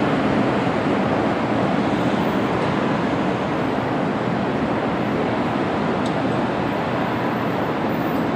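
Chicago CTA 'L' train running past, a steady rushing rumble of wheels on the rails.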